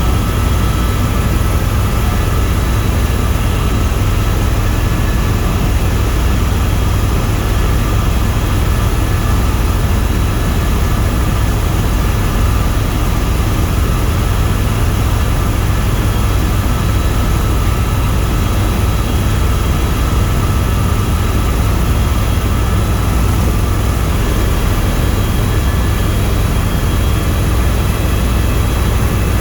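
Tour helicopter in flight: a steady, loud drone of rotor and turbine with a few constant high whines over it, unchanging throughout.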